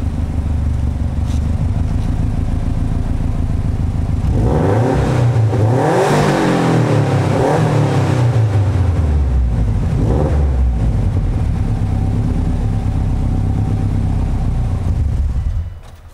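Turbocharged flat-four engine of an STi-swapped 2004 Subaru Forester idling, revved up and back down once, then given a shorter blip before settling back to idle; the sound cuts off near the end. Its exhaust is leaking, because the back half has no hangers and the catalytic converter is cracked.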